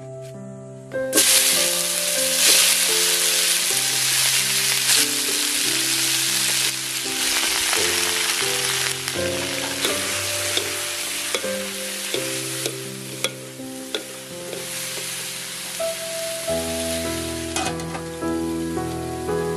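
Vegetables sizzling in a hot metal wok as they are stir-fried, starting about a second in, with scattered clinks of the stirring utensil against the pan. Background music plays underneath.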